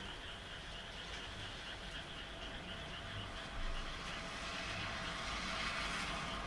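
A chorus of frogs calling in rapid pulsing trills. From about halfway a broad hiss swells up and begins to cover the calls.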